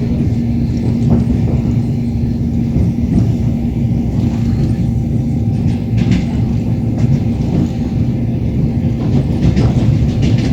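Passenger train running on the track, heard from inside a carriage: a steady rumble and hum with the wheels clicking over rail joints, the clicks coming closer together near the end.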